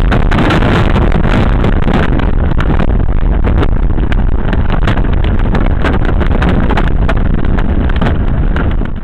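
Tornado winds roaring, heard from a car dashcam inside a garage: a loud, steady rumble shot through with many sharp cracks and knocks. It cuts off suddenly at the very end.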